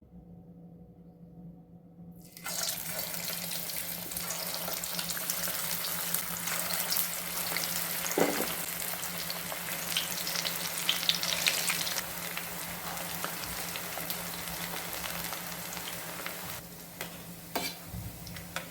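Palak chana pakodas deep-frying in hot oil: the sizzling starts suddenly about two seconds in and runs loud and dense, easing after about twelve seconds, over a low steady hum. A few knocks near the end.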